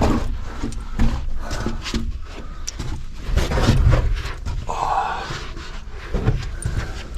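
A person breathing hard while scrambling through a narrow, slippery pipe, with scuffs and short knocks of shoes and hands against the pipe.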